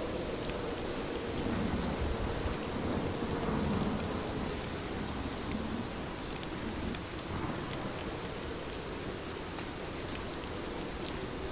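Heavy rain falling steadily, with scattered sharp drop ticks, and a low rumble swelling up between about two and four seconds in.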